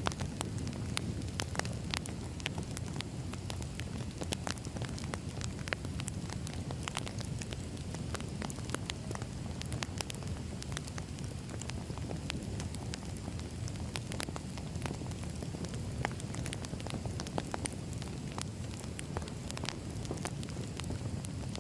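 Firewood burning in a wood fire: a steady low rumble of flame with frequent sharp crackles and pops from the burning logs.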